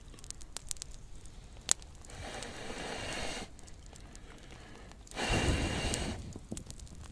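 Small campfire crackling, with scattered sharp pops and one loud pop about two seconds in. Twice the fire's hiss swells into a rushing whoosh for a second or so, the second time louder.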